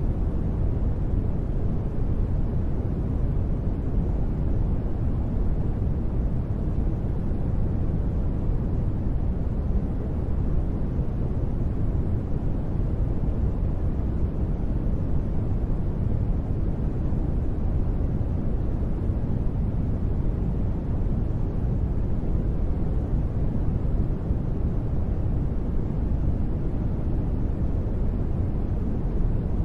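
Continuous sleep-track noise, steady and unchanging, deep and rumbly with little hiss at the top.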